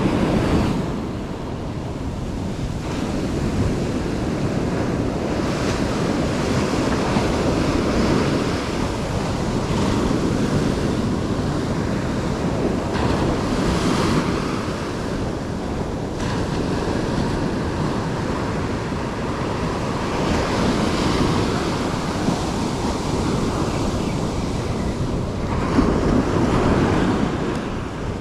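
Surf breaking and washing on the shore, swelling and easing every few seconds, with wind buffeting the microphone.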